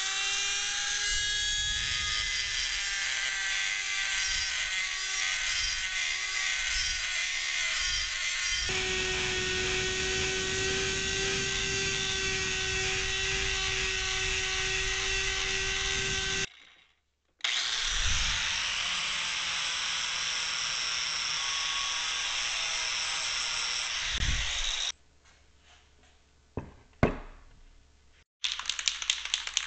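Die grinder with an abrasive roll spinning up to a steady high whine and grinding on the cast-iron press frame. It cuts off about 16 seconds in, runs again for about seven seconds, then stops. A few knocks follow, and a hissing spray starts near the end.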